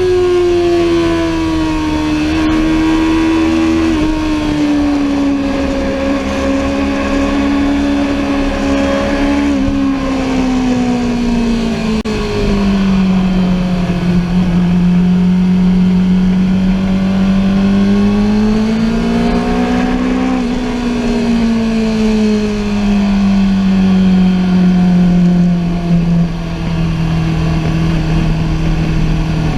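Sportbike engine running continuously at moderate, varying revs, its pitch sliding down, rising again about two-thirds of the way through, then falling and settling.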